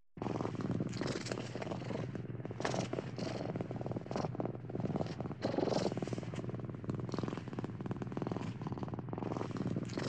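Domestic cat purring, a steady, rapidly pulsing rumble that starts suddenly right at the beginning.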